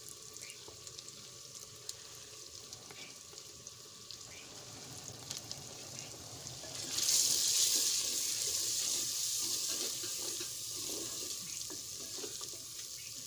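Onion-tomato masala frying and sizzling in a clay handi while stirred with a wooden spoon. About seven seconds in a sudden loud steam hiss rises as a little water goes into the hot masala, then slowly eases off.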